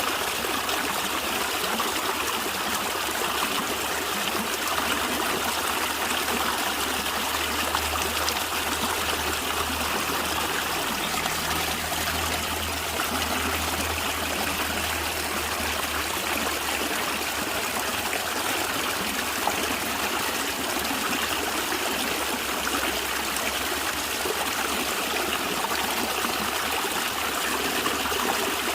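A small stream running and gurgling steadily over stones.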